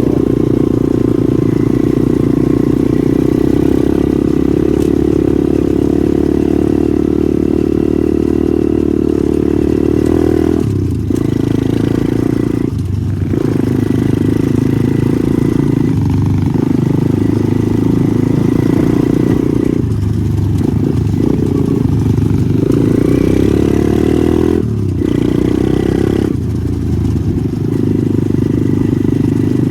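Pit bike engine running hard under throttle, steady and loud, with several brief drops about a third of the way in, halfway and near the end where the throttle is rolled off and opened again.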